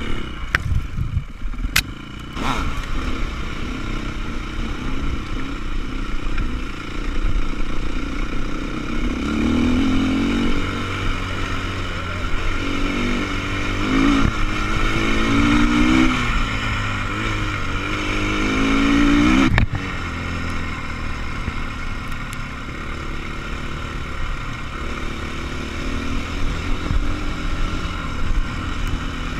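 Off-road motorcycle engines running, revving up and down repeatedly in the middle of the stretch before the sound changes abruptly, with a steadier engine drone after.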